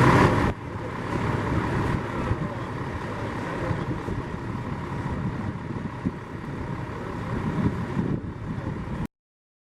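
Steady vehicle and traffic noise that cuts off abruptly near the end.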